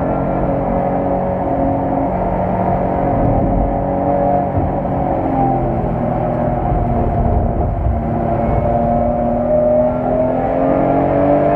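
BMW E46 M3's straight-six engine heard from inside the cabin, running hard at speed on track. The revs hold fairly steady with brief dips, then climb in pitch near the end as the car accelerates.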